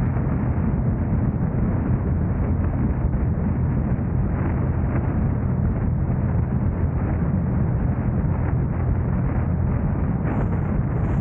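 Steady wind rumble on the camera microphone mixed with road and engine noise from a car driving.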